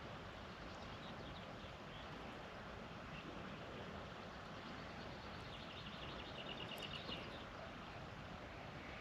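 Faint steady outdoor hiss, with a small bird calling a rapid run of high, evenly repeated notes from about five and a half to seven seconds in.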